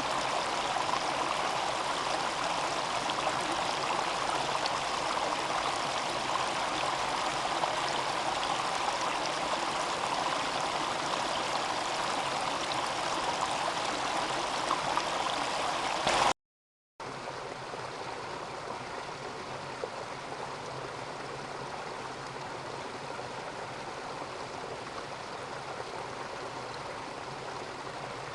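Mountain stream flowing, a steady even water sound. It cuts out for about half a second past the middle and comes back somewhat quieter.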